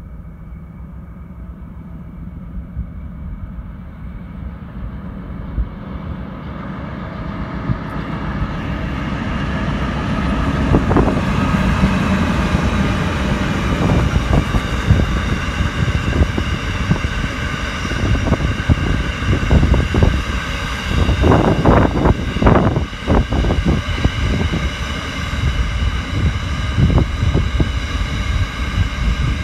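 A heavy freight train with two diesel locomotives approaching and passing. The locomotives' engines grow louder over the first ten seconds or so. They are followed by the rumble and repeated clacking of empty iron ore wagons rolling by.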